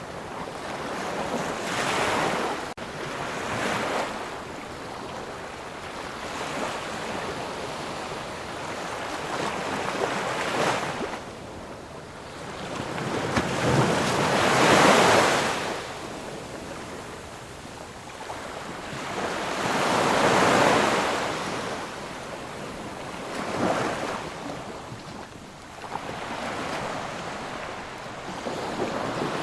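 Ocean surf: waves break and wash onto the shore one after another, each swelling and fading over a few seconds. The biggest wave comes about halfway through.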